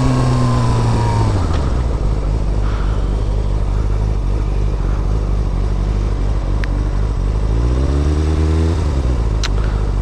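Motor vehicle engine during a chase: the revs drop with falling pitch in the first second or so, it runs low under road noise, then it revs up again with rising pitch about eight seconds in. A few sharp clicks are heard over it.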